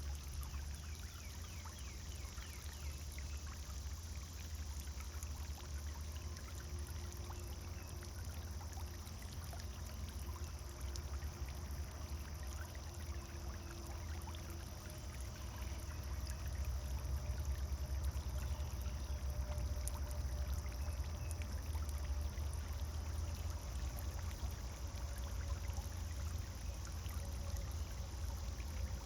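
Pond fountain splashing steadily into the water: a continuous pouring, trickling sound, a little louder from about halfway through.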